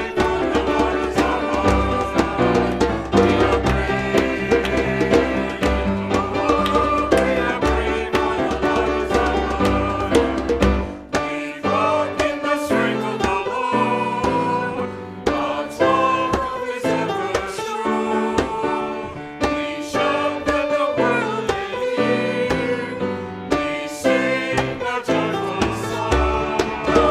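Church music: a hymn sung with instrumental accompaniment.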